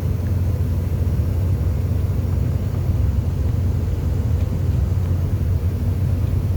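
Steady low rumble of an airliner heard from inside the passenger cabin, with no change in pitch or level.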